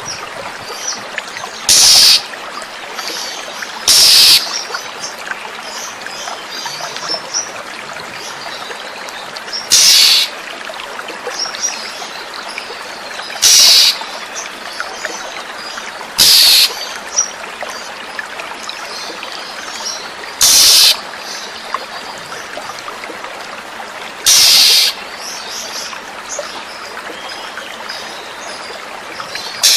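Oriental magpie-robin (kacer) song: seven short, loud bursts a few seconds apart, over a steady trickle of flowing water.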